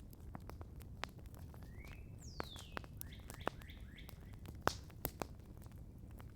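Campfire crackling with irregular sharp pops, the loudest about two thirds of the way through. In the middle a bird sings one short phrase: a rising note, a long falling whistle, then a quick run of short upslurred notes.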